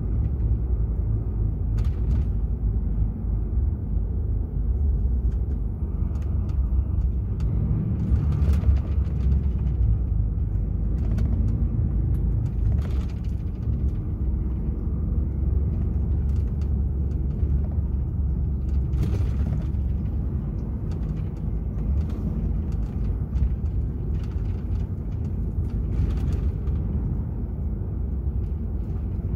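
Steady low rumble of a DAF XF 480 truck's diesel engine running, with scattered short rattles and clicks.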